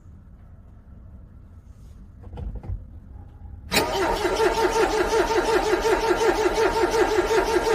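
Car's starter motor cranking a cold engine, starting abruptly about four seconds in and going on with an even rhythmic wobble of about six pulses a second, the engine not catching. Before it, a low rumble with a couple of soft thumps.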